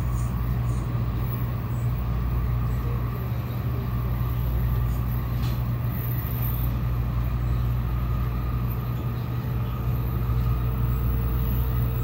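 Shinkansen Hikari running at speed, heard from inside the passenger car: a steady low rumble with a faint constant tone above it.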